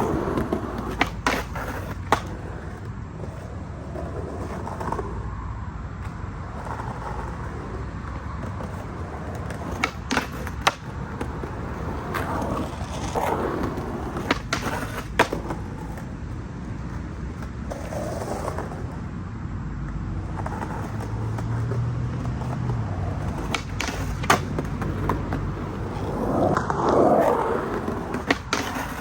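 Skateboard wheels rolling on a skatepark surface, with sharp wooden clacks of the board's tail popping and landing several times at irregular intervals.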